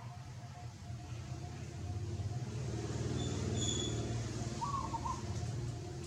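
A motor vehicle passing by: its engine sound swells to a peak about halfway through, then fades. A short bird call comes near the end.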